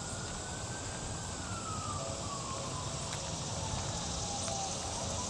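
A siren wailing: one slow tone that rises, then falls over several seconds and starts rising again near the end, over a steady background rumble.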